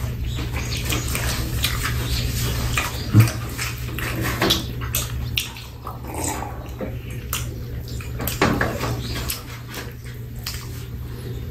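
Two people eating shrimp burgers close to the microphone: wet chewing and lip-smacking with scattered sharp mouth clicks, over a steady low hum.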